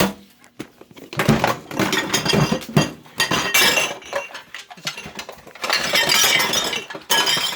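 Dense clatter of hard objects: rapid clinks, crunches and sharp knocks, busiest and loudest near the end.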